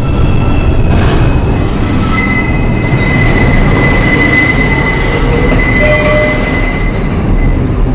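R142 subway train running on the Lexington Avenue line with a loud rumble. From about a second and a half in, a steady high wheel squeal rides over it for several seconds, then fades near the end.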